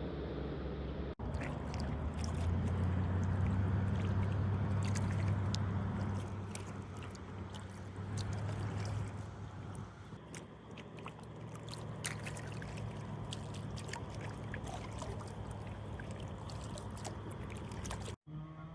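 Water trickling and dripping around a kayak, with scattered light ticks and knocks. Under it runs a low hum that swells for several seconds and then fades.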